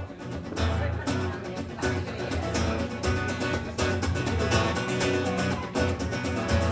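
Acoustic guitar strummed in a steady, even rhythm over a strong low bass note: the instrumental opening of a song played live.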